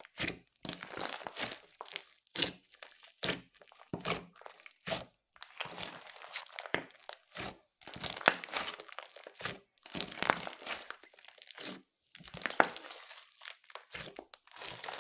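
Clear slime being worked by hand, with makeup and glitter mixed in. It gives irregular sticky clicks and pops in bursts, with short quiet gaps between them.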